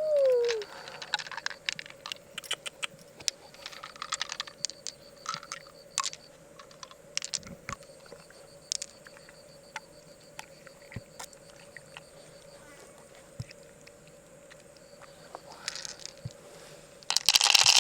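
Freshwater mussel shells clicking and tapping as they are handled, in short irregular knocks. Near the end comes a louder, denser scraping rustle.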